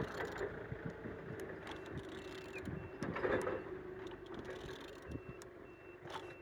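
Scattered clicks and knocks of a used Mercedes OM646 diesel engine being turned over, the crankshaft turning freely rather than seized.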